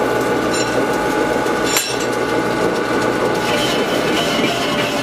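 Steady machine noise in a metal workshop during truck-rim repair, with a hammer strike on metal about two seconds in that rings briefly, and a lighter ringing tap shortly before it.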